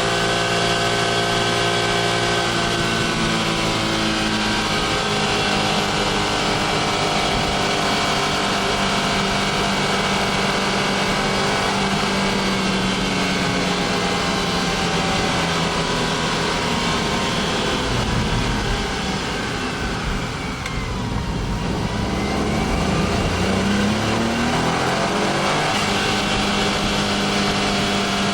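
Honda S660's small turbocharged three-cylinder engine running steadily; about twenty seconds in its note drops and then climbs back up to a steady pitch.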